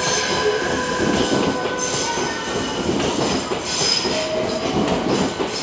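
Odakyu 50000 VSE Romancecar electric train running slowly past, its wheels rumbling steadily on the rails, with a brief tone about four seconds in.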